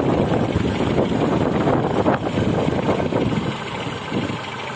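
ZAZ Slavuta's 1.2-litre SOHC four-cylinder petrol engine idling steadily and quietly with the choke partly pulled because it is still cold, heard up close in the engine bay. It grows fainter near the end.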